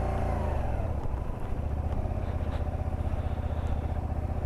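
Honda Varadero 125's small V-twin engine running hard under load, its revs dipping about a second in and then holding steady, while the clutch is slipped to get the bike up a muddy slope.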